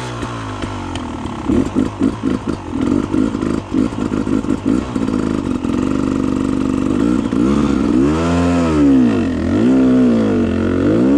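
Dirt bike engine running under load, choppy and uneven at first, then revved up and down in two rises and falls near the end.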